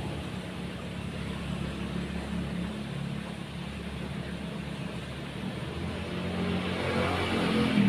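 A motor vehicle's engine running steadily nearby, with a low hum and road noise that grow louder near the end.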